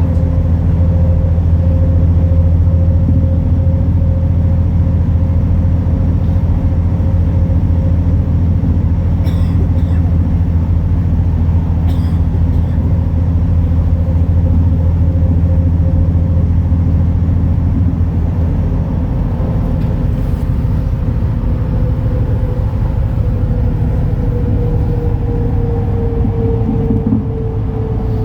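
MAN Lion's City NL293 city bus under way: a steady low drone from its diesel engine with a steady whine above it. The drone eases about two-thirds of the way through and the whine falls slowly in pitch near the end, with a couple of light clicks in the middle.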